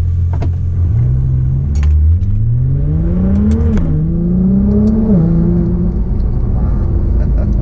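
Nissan GT-R R35's twin-turbo V6 heard from inside the cabin, accelerating hard: the engine note climbs steadily, drops twice with quick upshifts of its dual-clutch gearbox, then settles to a steady cruise near the end.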